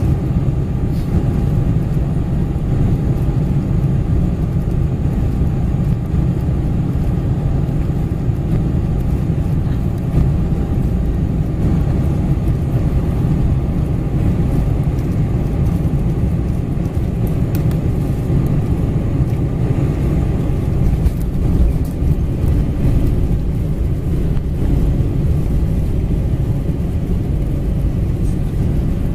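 Steady rumble of a Boeing 747-400's jet engines and rushing air, heard inside the passenger cabin, with a faint steady hum above it.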